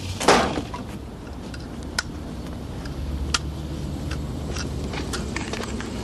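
Low steady rumble of a car engine idling, with a loud clank about a third of a second in and a few sharp clicks scattered through the rest.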